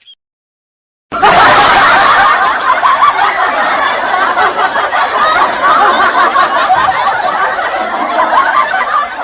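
Many people laughing together in a dense, continuous wave, like a laugh track, starting about a second in.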